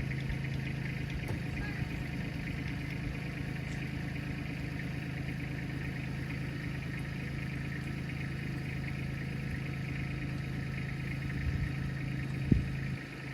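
An engine running steadily at a constant speed, with one sharp knock near the end.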